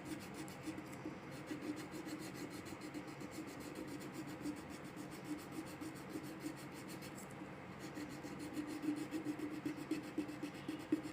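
Colouring strokes rubbing on a workbook page: a steady, quiet scratching of rapid, even back-and-forth strokes as a picture is filled in with colour.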